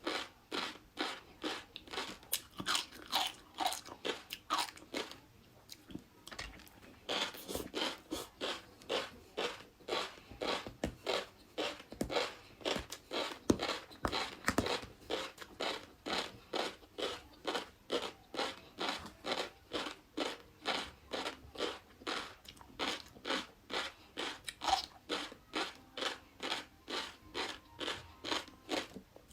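Close-miked chewing of crunchy flying fish roe, the eggs crackling and popping between the teeth in a steady rhythm of about two to three chews a second, with a short pause about five seconds in.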